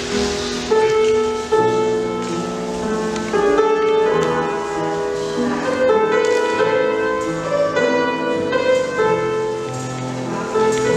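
Piano music played as ballet barre accompaniment, a steady run of held notes and chords.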